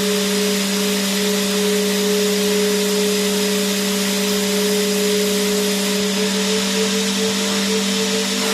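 Vacuum cleaner running continuously: a steady rushing hiss over a constant low motor hum and whine, with the whine starting to waver slightly about six seconds in.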